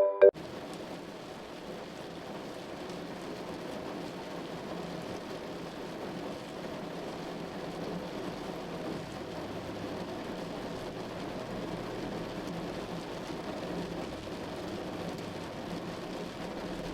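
Steady rain falling on a car that is being driven, an even hiss with faint scattered drop ticks.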